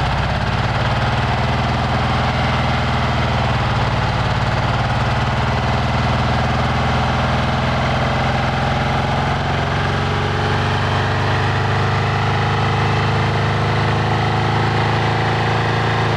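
1968 Porsche 912's air-cooled flat-four engine idling steadily.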